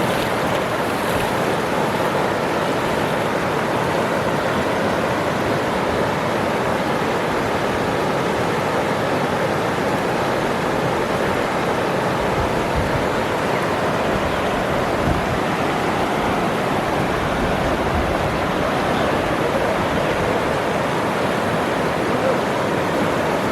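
Waterfall: falling water rushing steadily in an even, unbroken wash.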